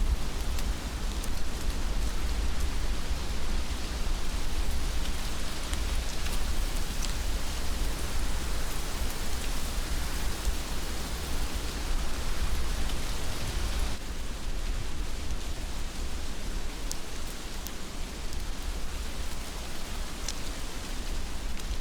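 Heavy rain falling steadily: a dense even hiss with a deep low rumble underneath and scattered sharper drop ticks. The high hiss eases slightly about two-thirds of the way through.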